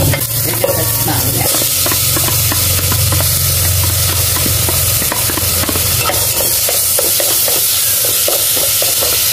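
Sliced shallots sizzling and crackling in hot oil in a pot, with minced pork tipped in about halfway and frying along with them.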